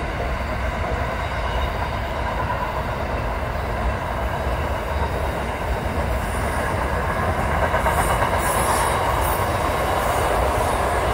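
A train passing on the rails with a steady rumble of wheels and cars. A high-pitched wheel squeal joins in over the last few seconds, and the sound grows slightly louder.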